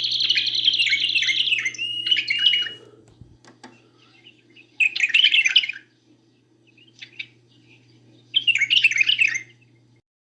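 Caged songbird singing: a long, rapid trill lasting about three seconds, then two short warbling phrases about three seconds apart.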